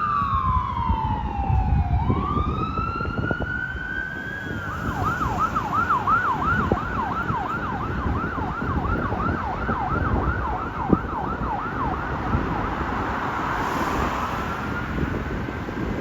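Fire engine siren on a 1992 Seagrave pumper, first wailing down and back up in slow sweeps. About five seconds in it switches to a fast yelp of about three sweeps a second, and near the end it returns to a slower wail. A low engine and road rumble runs underneath.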